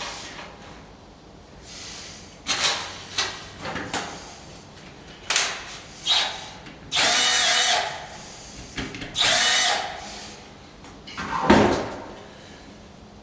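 Power drill running in two short bursts of about a second each, with knocks and scrapes of tool handling around them and a sharp knock near the end.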